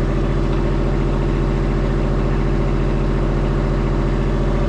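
Diesel engine of a Kubota machine running steadily at an even speed, close to the microphone.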